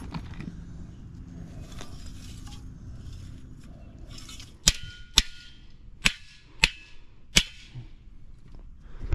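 Five sharp metallic knocks, each ringing briefly, spaced about half a second to a second apart, after a stretch of scraping and handling noise, from tools working on a sheet-metal air handler.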